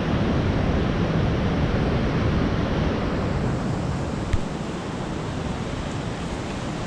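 Steady noise of surf on a rocky shore with wind buffeting the microphone, easing slightly partway through. There is a single short click about four seconds in.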